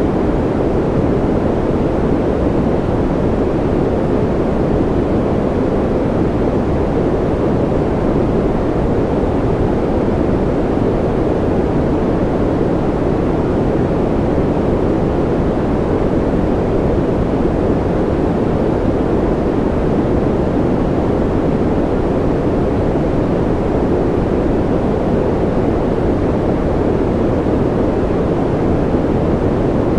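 Steady, unchanging white noise with a deep, muffled character: most of it sits low, with little hiss on top.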